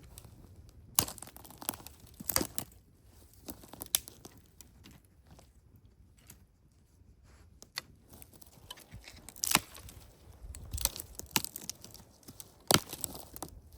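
Crisp crackling, tearing and rustling from close-up handling, in irregular bursts separated by quieter stretches.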